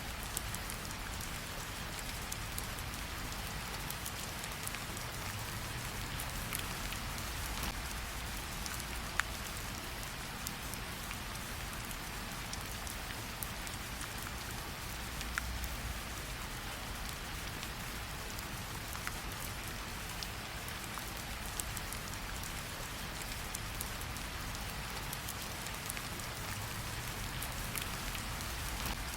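Steady rain falling, an even hiss over a low rumble, with a few sharp pops now and then.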